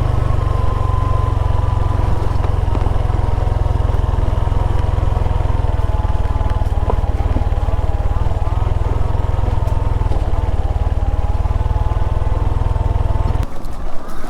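Heavy wind rumble on the microphone of a moving motorcycle, with a faint steady whine underneath. The rumble drops out briefly near the end.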